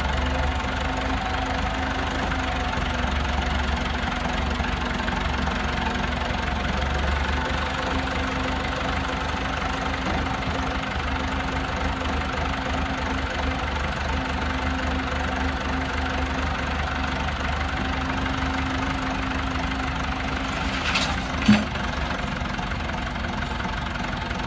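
Tow truck engine running steadily, with one sharp knock a little over 21 seconds in.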